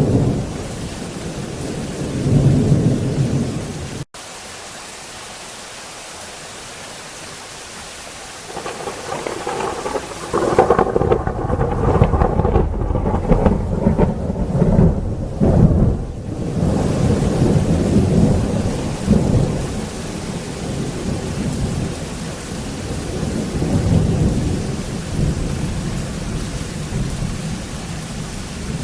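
Thunderstorm with heavy rain and rolling thunder. About four seconds in the sound cuts abruptly to quieter steady rain, then a long, loud thunder rumble builds from about nine seconds and keeps rumbling through the rest.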